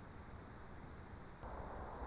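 Steady hiss of background noise, stepping up in level about one and a half seconds in.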